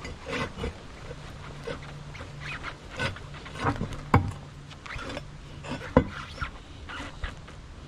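Scattered clicks and metallic knocks of a rear sway bar and stabilizer link being pushed and worked into place by hand, with two sharper knocks about four and six seconds in.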